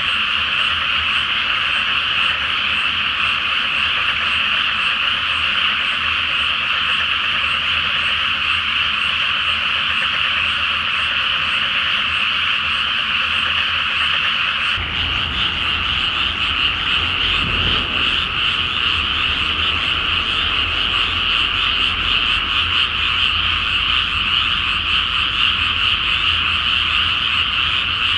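A large chorus of frogs croaking continuously, many calls overlapping into a dense, steady wall of sound. A faint low rumble underneath grows stronger from about halfway.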